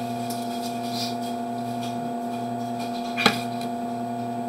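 Steady electrical hum from a sewer inspection camera's recording rig, several even tones with a lower drone that swells and fades. A single sharp click about three seconds in.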